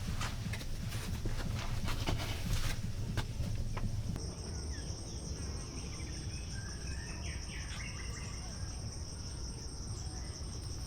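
Crickets trilling steadily in a high, even tone, with a few faint chirps over it. For the first four seconds, before it starts abruptly, there are irregular clicks and crackles over a low rumble instead.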